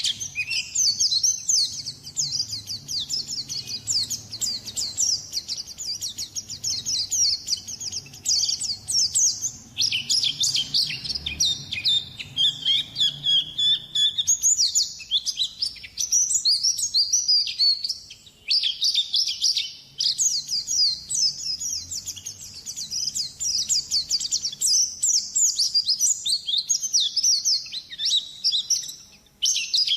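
White-eye (pleci) song: rapid, high-pitched twittering and chirping in long unbroken runs, with brief pauses about ten, fifteen and nineteen seconds in.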